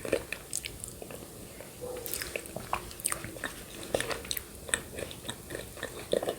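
Close-miked mouth sounds of eating yogurt with grated coconut: wet smacks, lip clicks and soft chewing, a scatter of short sharp clicks with no steady rhythm.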